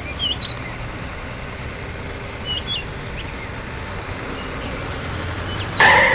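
A steady low vehicle rumble with birds chirping now and then. Near the end comes one short, loud horn-like honk.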